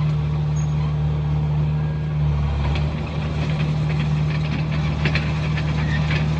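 Komatsu bulldozer's diesel engine running steadily, its note dipping slightly about two to three seconds in, with a rattle of short metallic clicks from about three seconds in.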